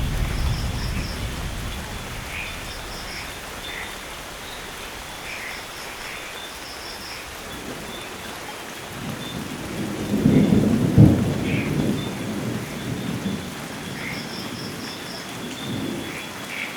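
Steady rain with rolling thunder: a rumble dies away at the start, and another builds about nine seconds in, loudest around eleven seconds, before fading.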